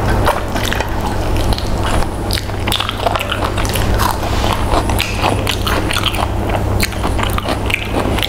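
Close-miked chewing and wet mouth smacks as a person eats a mouthful of rice and chicken by hand, in many quick irregular clicks over a steady low hum.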